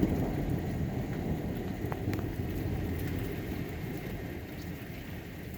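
Heavy rain falling through a low roll of thunder that rumbles on and fades away.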